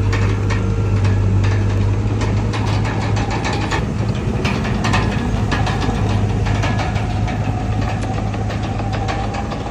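Komatsu D31PX bulldozer's diesel engine running steadily under a strong low hum, with many short metallic clicks and clanks scattered throughout.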